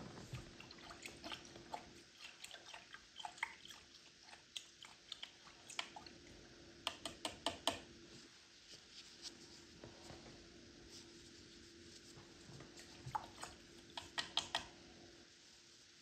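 A paintbrush dabbing and tapping on a stretched canvas: irregular soft ticks and scratchy strokes, with two quick flurries of taps, one around the middle and one near the end.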